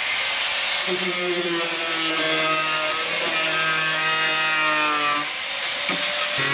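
Power tool cutting into wood: a steady, pitched running sound with a rasping edge, easing off briefly about five seconds in and then picking up again.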